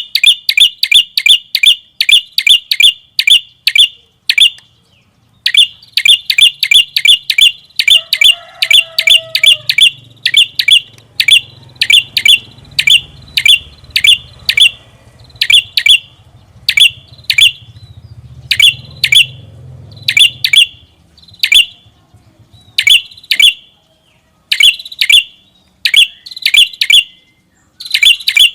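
A prenjak kepala merah songbird calling in loud, sharp, high chips repeated rapidly, about four a second at first, then slowing to spaced single notes with short pauses, including one pause about four seconds in.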